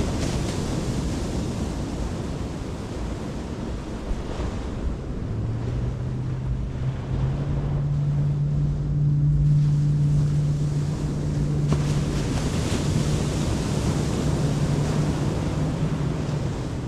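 Ocean surf and wind buffeting the microphone. From about five seconds in, a steady low hum that rises slightly in pitch joins it and fades out just before the end.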